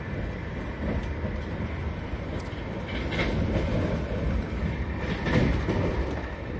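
Rumble of a Mumbai Rajdhani Express with Tejas coaches running along the track, heard from on board: a steady wheel-and-rail noise with a few sharper knocks about halfway through and again near the end.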